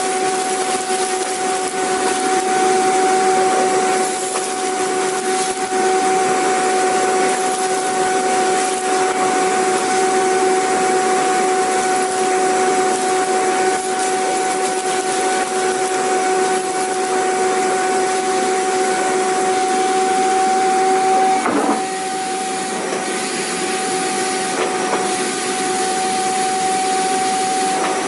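Vacuum cleaner motor running steadily: a constant rushing of air under a steady high whine, with a brief break in the tone about three quarters of the way through.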